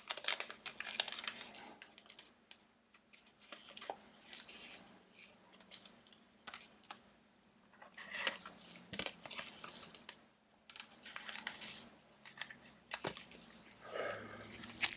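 Trading cards and their packaging handled up close: rustling and sliding in short bursts with brief pauses, and a few light clicks.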